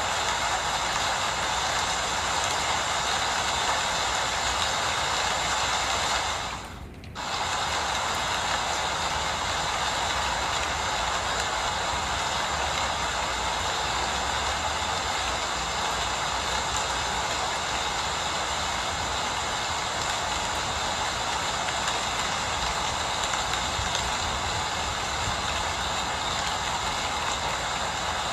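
Steady rain falling, an even hiss. About seven seconds in, the upper part of the sound drops out for under a second.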